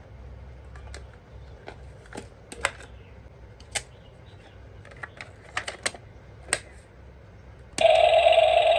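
Scattered sharp plastic clicks and taps as a toy is handled. Near the end, a loud, steady buzzing tone switches on suddenly.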